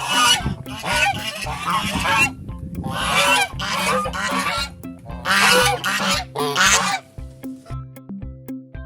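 Geese honking in three bouts of calls, each one to two seconds long, dying away about seven seconds in.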